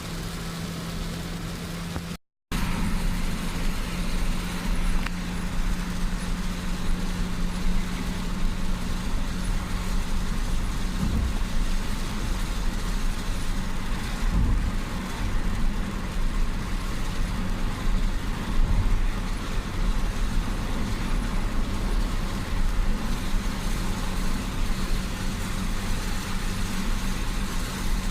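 Steady car noise: engine hum and tyre and road noise, as from a vehicle driving on wet roads in rain. The sound drops out briefly about two seconds in, then comes back louder.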